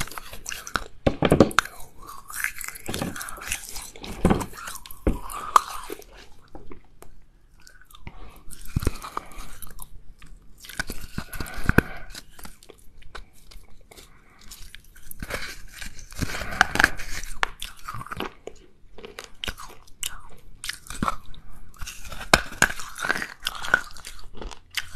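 Close-miked chewing and crunching of lumps of china clay, in bursts of crunchy bites separated by short pauses.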